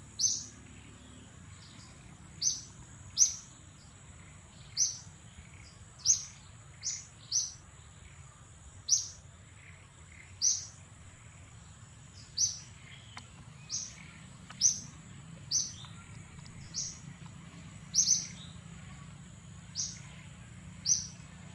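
A bird chirping: short, sharp, high chirps repeated every one to two seconds over a steady high-pitched tone.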